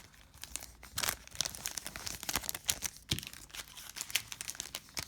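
Crinkling and rustling of trading card pack wrappers handled by hand during a box break, with irregular crackles and a few louder crinkles about a second in and about three seconds in.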